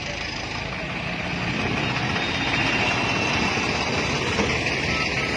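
Steady road traffic noise: the engines and tyres of a convoy of vehicles running along the road.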